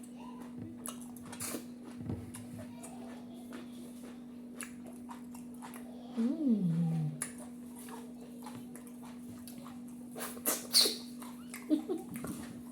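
People eating a meal by hand: scattered smacks and small clicks of chewing and handling food over a steady low hum. About six seconds in there is one short voiced sound that rises and then falls in pitch, and a few sharper, louder sounds come near the end.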